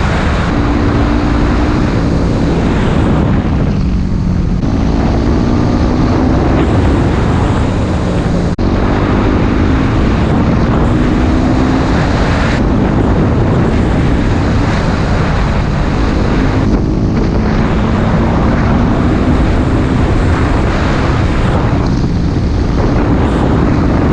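Yamaha WR dual-sport motorcycle's single-cylinder engine under way, pitch climbing through each gear and dropping at the shifts, several times over, with heavy wind noise on the microphone.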